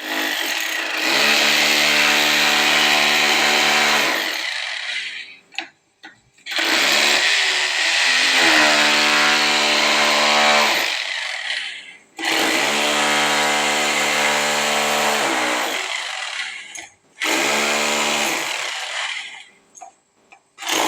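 A power tool's motor runs in four bursts of about three to five seconds each, stopping briefly between them, with a steady whine and a hiss on top.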